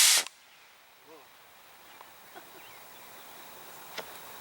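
Model rocket motor's rushing hiss cutting off sharply about a quarter second in as the burn ends. Then fairly quiet, with a few faint short chirps and a single sharp click about four seconds in.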